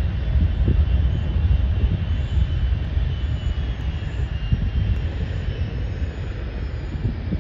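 Jet airliner's engines rumbling deeply as it passes, with a faint high whine, slowly fading.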